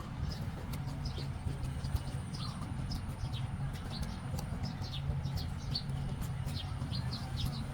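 Small birds chirping: many short, quick, falling chirps, repeated throughout, over a steady low hum.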